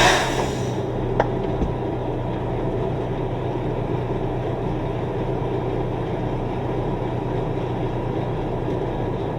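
Semi truck's diesel engine idling steadily with a constant low hum. A short burst of air hiss fades away at the very start, and there is a single click about a second in.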